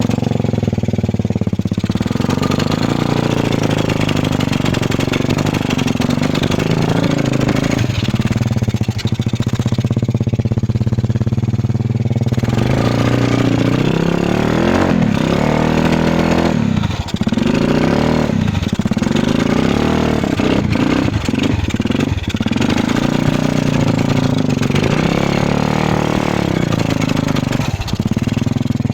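Tractor engine running loud and steady, then revved up and down again and again from about halfway through.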